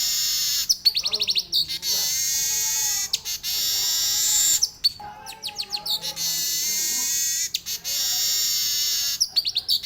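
Manyar (weaver bird) singing a continuous high, buzzing song in canary-like phrases, broken about every four seconds by a quick run of clicks.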